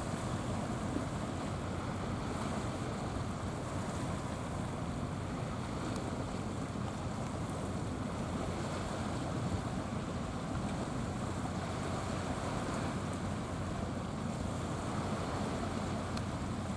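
Steady wash of sea water mixed with wind rumble on the microphone, an even noise that does not change.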